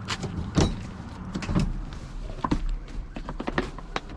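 A string of irregular knocks and clunks, roughly one a second, over a low rumble: handling noise as things are moved about.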